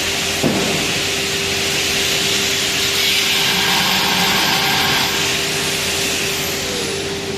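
A power tool running steadily, with a loud hiss over a constant hum and a sharp click about half a second in.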